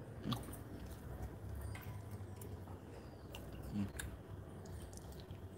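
Chewing and eating sounds of honey-glazed chicken being bitten and chewed, with a few light scattered clicks and a brief low sound just before four seconds in.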